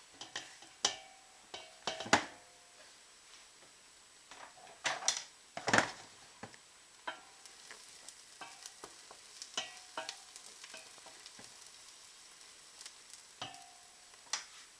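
Button mushrooms being added to a frying pan of shallots and tomato purée and stirred in: a faint sizzle under irregular knocks and scrapes of a utensil against the pan, some ringing briefly.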